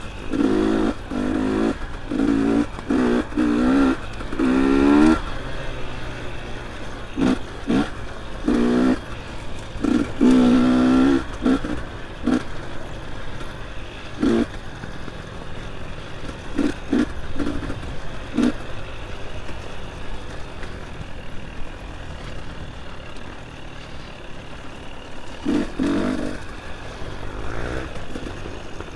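Dirt bike engine revving in short bursts as the throttle is opened and closed, each burst climbing in pitch. Knocks and clatter from the bike come in between. The bursts come thick in the first dozen seconds and again near the end, with quieter running in the middle.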